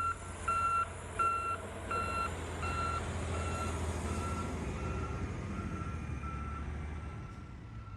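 A heavy vehicle's reversing alarm beeping steadily, about three beeps every two seconds, over the low rumble of its engine. The beeps grow fainter after the first few seconds.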